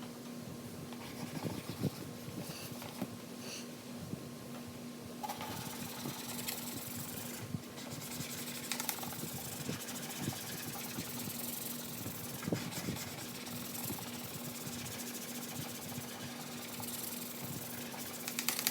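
Hand scrubbing and rubbing on a scratched plastic light cover, short irregular scratchy strokes that grow brighter and busier about five seconds in, over a steady low hum.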